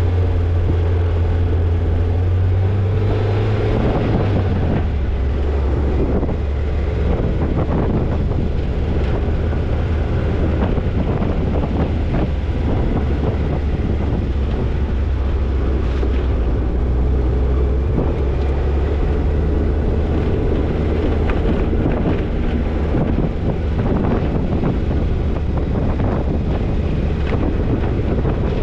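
Toyota Tercel 4WD wagon driving on a rough trail: the engine runs steadily and its note drops about four seconds in, with scattered knocks and rattles and wind on the microphone.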